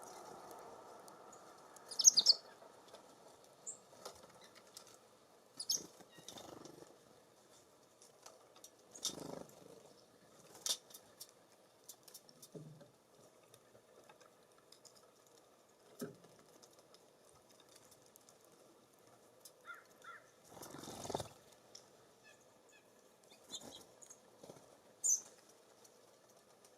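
Small birds at a feeder: a few brief high chirps, the loudest about two seconds in, among scattered small taps and rustles, with a longer rustling burst about three-quarters of the way through.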